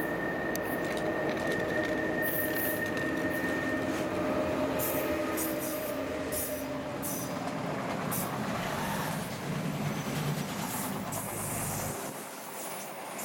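An electric locomotive approaches and passes close by at speed at the head of a freight train, followed by car-carrier wagons rolling past. Steady high tones over the first few seconds give way to continuous rolling noise with brief high-pitched hisses.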